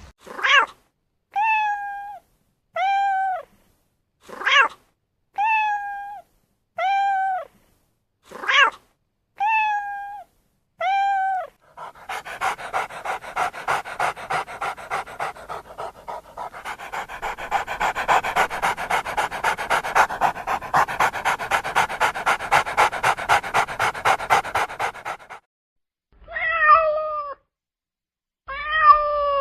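A young domestic animal calling: about a dozen short high cries, some held and falling, alternating with quick sharp squeaks. Then rapid panting for about thirteen seconds, and two falling meow-like cries near the end.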